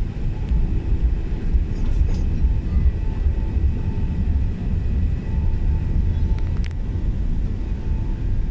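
Steady low rumble of an Airbus A380 in flight, engine and airflow noise heard from inside the passenger cabin, with a few faint clicks.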